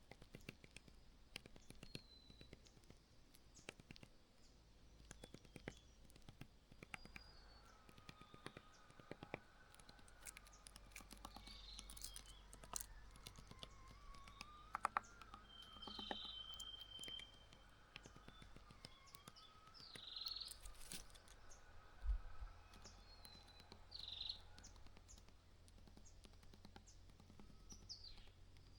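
Small birds giving short high chirps several times, against faint scattered clicks and taps and a low background hum.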